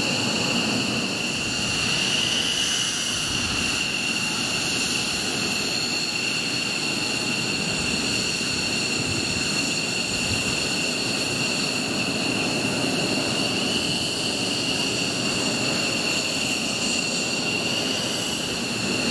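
Jet engines of taxiing F-15 fighters running at low power: a steady high-pitched whine over a broad rumble.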